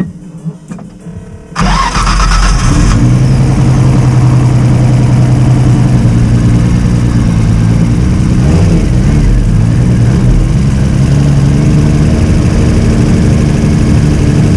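Car engine, most likely the drift-spec Nissan S13's, comes in suddenly about a second and a half in and runs loud and steady, with a short dip and rise in pitch midway.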